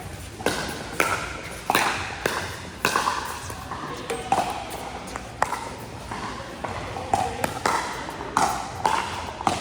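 Pickleball rally: a string of sharp pops as paddles strike the hard plastic ball and it bounces on the court, coming about every half second to a second. Faint voices in the background.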